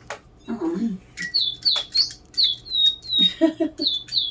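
Electronic DigiBirds toy birds chirping: a run of short, quick downward-sliding chirps, about two a second, starting about a second in.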